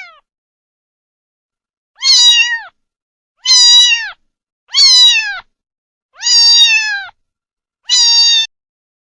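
Five short, high-pitched animal calls, each under a second and falling in pitch at its end, repeated about a second and a half apart.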